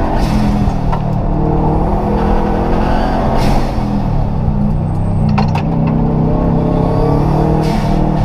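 Rally car's engine running hard at high revs, heard from inside the stripped, roll-caged cabin.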